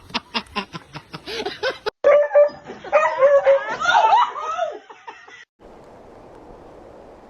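People laughing in short, rhythmic bursts. About two seconds in, a sudden cut brings a louder, higher stretch of laughter lasting about three seconds. Then it cuts off abruptly, leaving only faint steady background noise.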